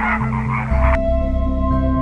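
A dense chorus of rapid, pulsing animal calls over a steady music drone of held tones; the calls cut off abruptly about a second in, leaving only the drone.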